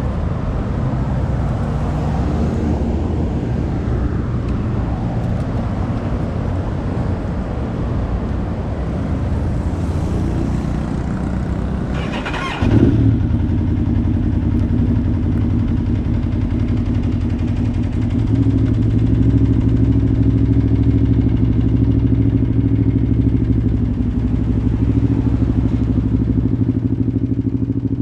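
Aprilia Tuono V4R's V4 engine starting about halfway through with a sudden burst, then idling steadily. Before that there is a low rumble.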